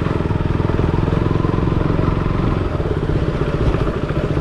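KTM Duke 200's single-cylinder four-stroke motorcycle engine running steadily.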